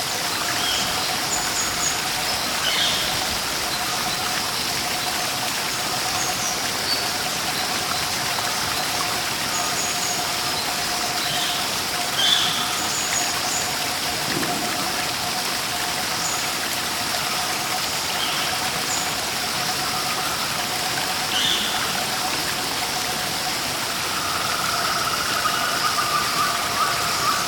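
Steady rushing water of a waterfall or stream, with short high bird chirps every few seconds. A faint steady tone runs underneath, and near the end a wavering mid-pitched sound joins in.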